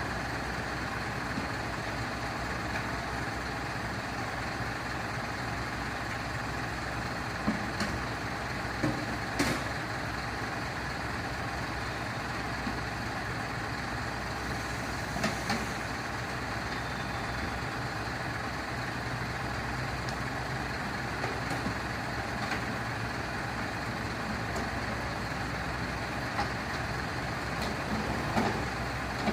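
Heavy rescue truck's engine idling steadily, with a few short sharp knocks and clicks over it.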